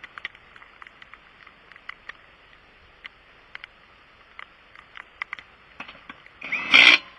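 Rain hissing steadily, with scattered ticks of drops striking close by. Near the end an impact wrench runs in one short, loud burst of about half a second.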